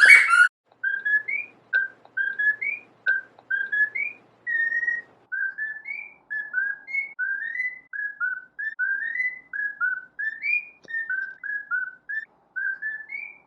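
Cockatiel whistling a long run of short, clear chirping notes, many gliding upward in pitch, about two to three a second. A brief harsh burst comes right at the start.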